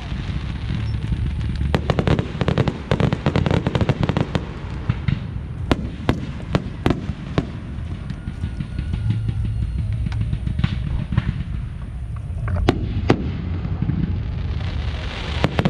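Aerial fireworks display: shells bursting with sharp bangs and crackling, a fast run of reports in the first few seconds, then sparser, with two louder bangs about thirteen seconds in and another quick cluster near the end.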